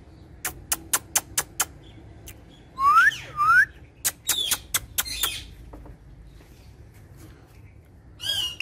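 Green ringneck parakeet calling: a run of short chirps, then two rising whistles about three seconds in, followed by harsher calls and one more call near the end.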